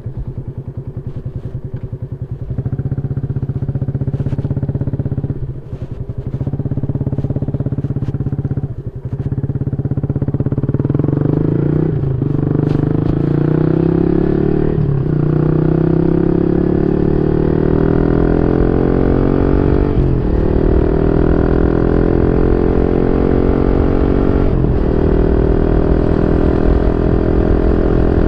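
Yamaha Y15ZR's single-cylinder 150cc four-stroke engine running through a YYPANG SD3 aftermarket exhaust. After about ten seconds it accelerates, its pitch climbing steadily and dropping briefly four times as it changes gear.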